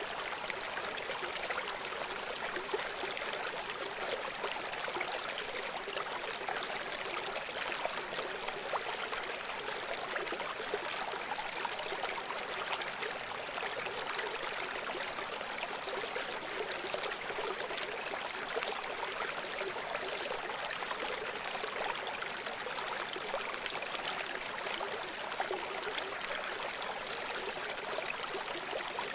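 Running stream: water flowing and burbling over rocks as a steady, even rush with fine splashing and trickling detail.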